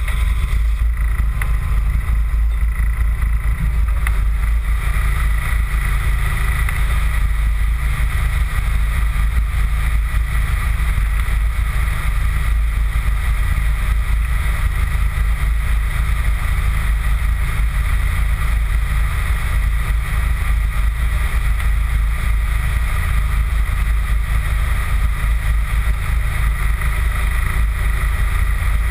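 Toyota Celica GT4 (ST185) turbocharged four-cylinder engine idling steadily while the car stands still, heard from a bumper-mounted camera, with wind rumbling on the microphone.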